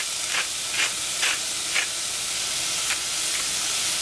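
Eggplant frying in a saucepan with a steady sizzle, while a hand-twisted spice mill grinds over it: four short grinding rasps in the first two seconds, then a fainter one about three seconds in.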